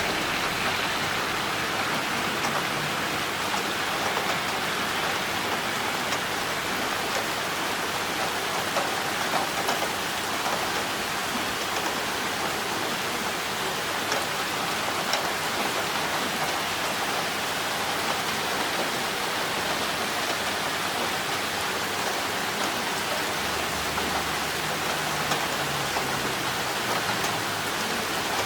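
Heavy rain falling steadily, with water pouring down a rain drainpipe and scattered drops ticking on surfaces.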